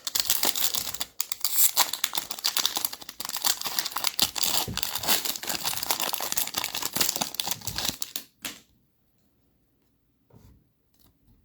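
A foil wrapper of a Mosaic basketball card pack being torn open and crinkled, with dense crackling for about eight seconds before it goes quiet apart from a few faint clicks.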